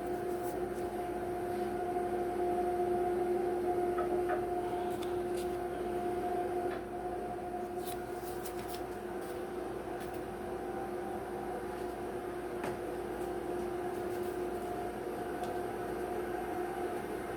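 A steady electric-motor hum, one low tone with its overtone, with a few light clicks over it.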